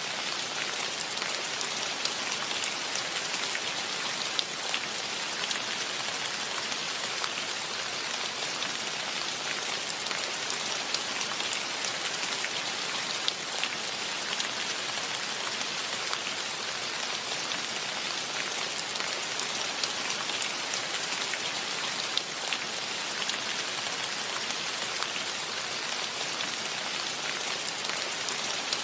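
Steady rainfall, a dense even hiss of drops, with now and then a single drop ticking sharply on a nearby surface.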